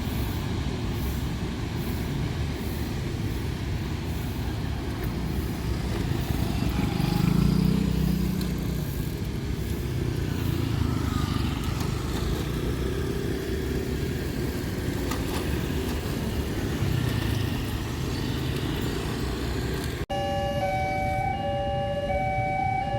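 Heavy low rumble of a passing train. After a sudden cut near the end, a two-tone electronic warning signal alternates steadily.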